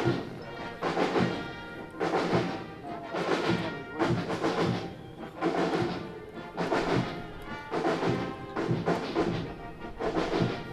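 Military band playing a march: brass over a steady drum beat.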